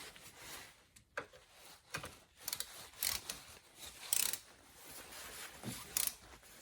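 Hand tools working on metal: irregular clicks, clinks and short scrapes, some ratchet-like, in separate bursts a second or so apart, cutting off abruptly at the end.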